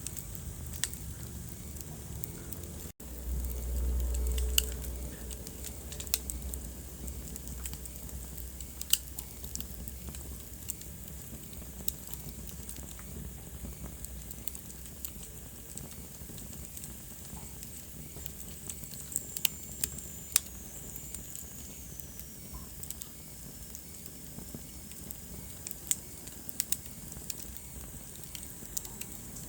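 Wood fire crackling in a fireplace: scattered sharp pops and snaps over a steady low hiss. About three seconds in the sound drops out for a moment, then a low rumble swells for a couple of seconds. Around two-thirds of the way in, a faint high whistle slides downward.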